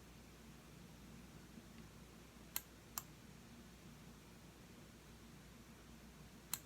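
Computer mouse clicking: two clicks about half a second apart, then a third about four seconds later, over a faint steady room hum.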